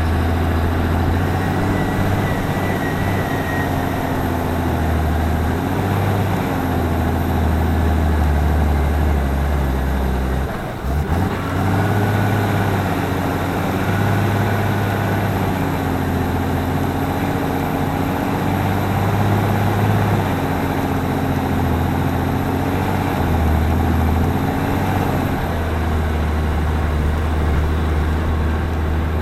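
Claas Axion 820 tractor's six-cylinder diesel engine running, its pitch rising and falling a few times as engine speed changes, with a brief drop about eleven seconds in.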